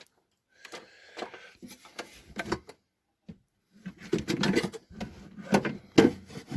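Metal parts and hand tools being handled on a throttle-body injection unit: scattered clicks, knocks and light scraping, growing into busier, louder clatter in the second half.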